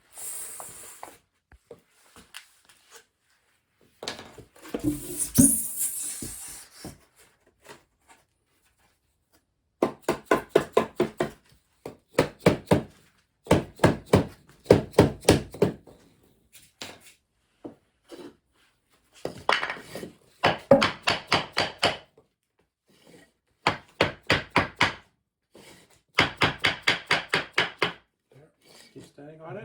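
Bursts of rapid blows, about five or six a second, knocking a wooden sub-floor panel sideways to seat it into its neighbour, with a scraping slide of the panel about five seconds in.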